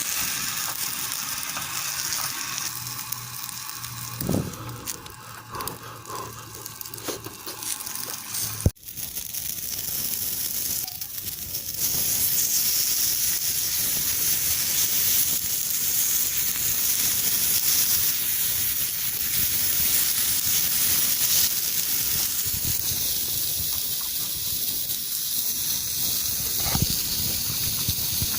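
Offal sizzling on a steel griddle plate over a campfire: a steady hiss, broken once by a sharp click about nine seconds in.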